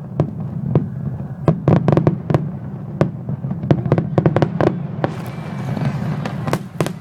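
Aerial fireworks going off in quick succession, sharp bangs and pops several times a second over a steady low rumble. About five seconds in, a crackling hiss spreads across the sound beneath the bangs.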